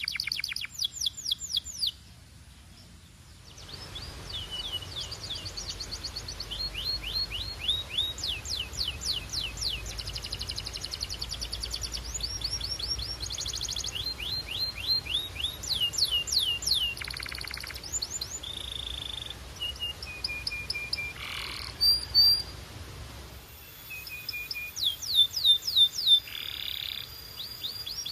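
Domestic canary singing: rapid trills of repeated falling notes, broken by a few short pauses and several held steady whistled notes.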